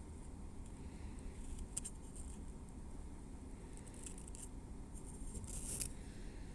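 Metal tweezers working over a scalp and through hair, giving soft scratching and small crisp clicks in three short spells, the strongest near the end, over a steady low hum.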